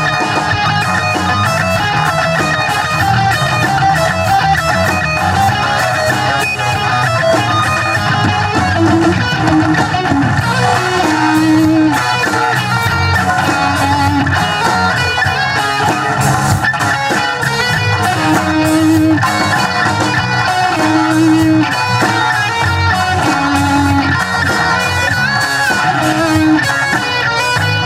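Live rock band playing an instrumental passage, with electric guitar strumming and leading over bass guitar and no singing.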